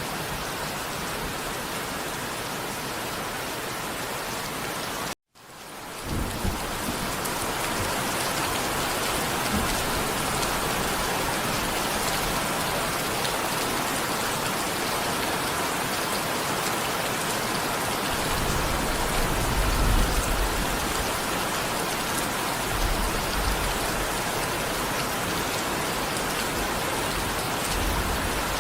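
Steady heavy rain, a dense even hiss. About five seconds in, the sound cuts out for a moment and fades back up. Later there are low rumbles of thunder, the strongest a little past the middle.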